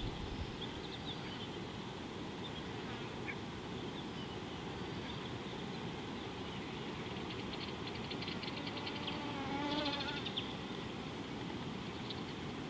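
Steady outdoor background hiss with scattered wild bird calls: a rapid trill about seven seconds in, then the loudest sound, a call with a wavering pitch, about ten seconds in.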